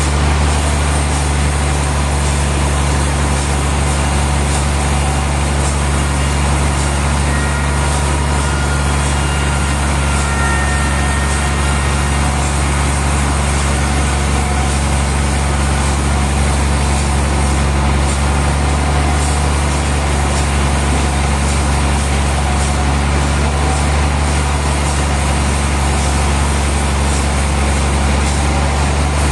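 Heavy sawmill machinery engine running at a constant speed, a loud, steady low hum with no rises, falls or cutting strokes.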